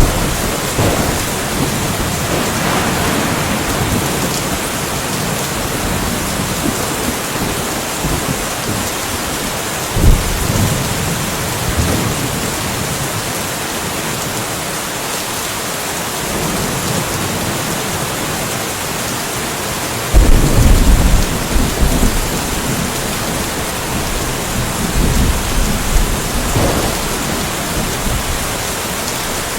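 Steady rainfall with thunder rumbling several times over it: short claps near the start and about ten seconds in, the loudest and longest rumble from about twenty seconds in for a few seconds, and a fainter roll a few seconds later.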